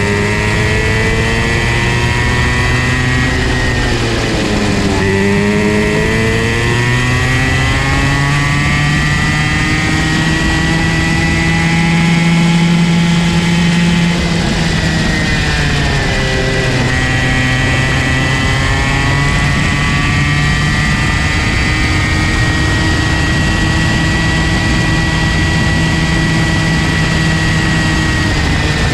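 Comer C50 50cc two-stroke go-kart engine at high revs, its pitch climbing slowly, dropping sharply about four and fifteen seconds in as the kart slows for corners, then climbing again.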